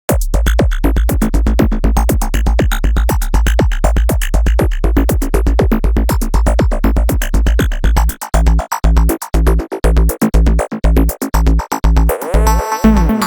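Tone2 Electra 3 software synthesizer playing an electronic preset: a fast run of short repeated notes over a pulsing deep bass. About eight seconds in the bass turns choppy, and near the end a sweeping layer with gliding pitches comes in.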